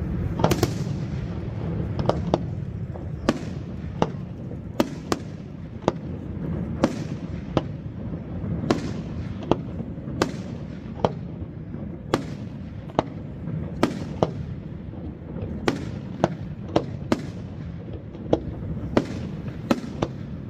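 Fireworks display: sharp bangs from firework shells, going off at irregular intervals of roughly one a second, over a steady low rumble.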